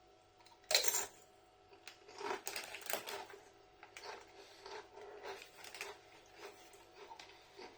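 Tortilla chips being crunched and chewed close to the microphone: one loud crunch about a second in, then a run of smaller irregular crunches.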